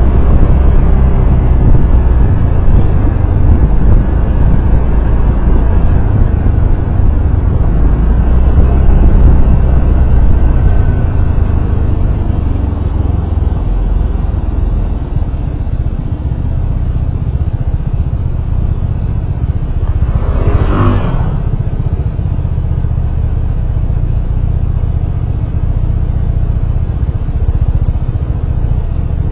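Vehicle on the move, heard as a steady low rumble of engine, road and wind noise. A brief, sharper sound stands out a little after two-thirds of the way through.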